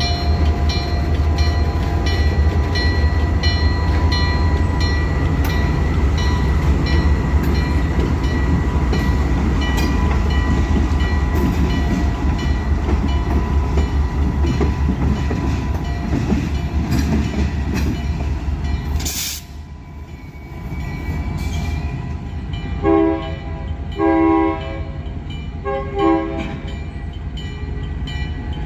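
A train rolls by with a heavy rumble and a steady clacking of wheels over rail joints, and the sound drops away abruptly about two-thirds of the way in. Then a diesel locomotive's air horn sounds three short blasts.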